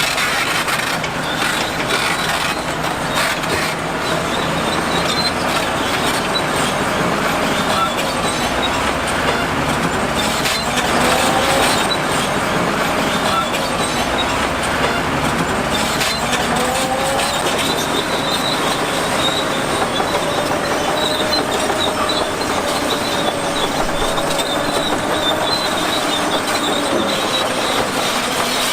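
Crawler bulldozer working, its steel tracks clanking and squealing over the steady noise of the machine, with a wavering squeal in the second half.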